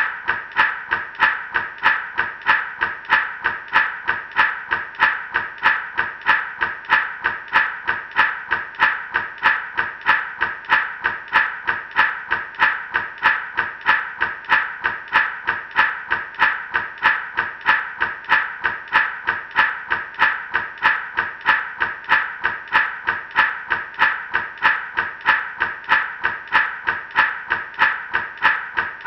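Gourd rattle shaken in a steady, even rhythm, about two to three shakes a second, with a dry rattling swish on each stroke.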